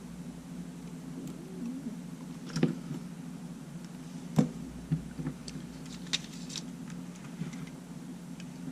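Small hand tools clicking and tapping against the parts of an opened-up camera: a handful of short sharp taps, the loudest about four and a half seconds in, over a steady low hum.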